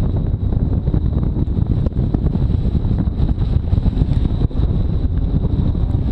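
Chevrolet Camaro ZL1 1LE's supercharged V8 running on a wet autocross course, a dense low rumble mixed with tyre and water noise and wind buffeting on the microphone.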